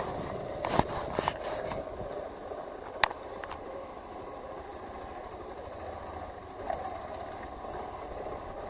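Hero Xpulse 200 4V single-cylinder motorcycle engine running steadily at low revs. A few sharp knocks come in the first three seconds, the loudest about three seconds in.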